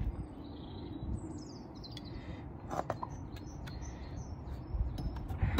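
Small birds chirping faintly, short high calls that come mostly in the first half, over steady low background noise.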